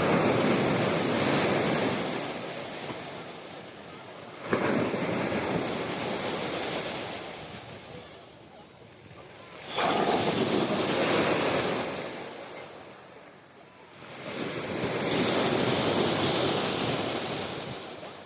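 Black Sea storm surf breaking on the beach: four waves in turn, each a surge of rushing water that builds and fades, two of them arriving with a sudden crash.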